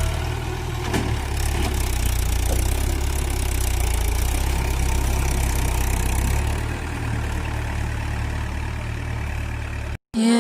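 Mahindra tractor's diesel engine idling steadily, a little quieter about two-thirds of the way through, then cut off suddenly just before the end.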